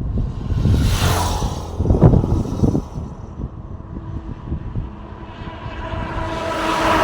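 Vehicles passing on a road. One whooshes past about a second in over a low rumble, and another vehicle grows louder toward the end.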